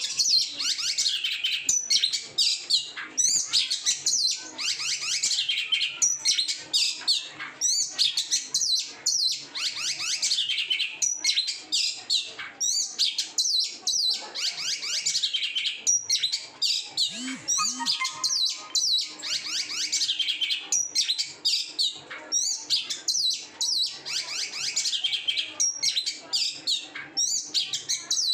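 Oriental magpie-robin (kacer) singing without pause, a rapid stream of varied high whistled phrases. The fill-in phrases are imitated calls of other birds.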